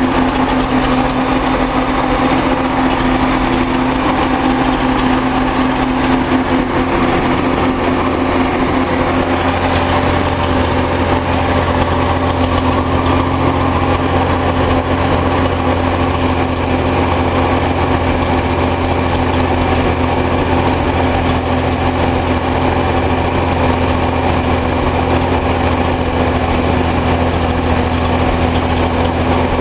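Datsun 280Z's L28 inline-six engine idling steadily, running smoothly after a faulty fuel injector was replaced. Its low hum grows stronger about eight seconds in.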